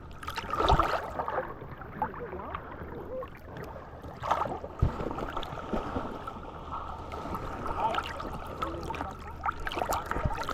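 Water lapping and slapping against the hull of a stopped, floating jet ski, with a few sharp knocks, the strongest about a second in and near the middle, over a steady faint hum.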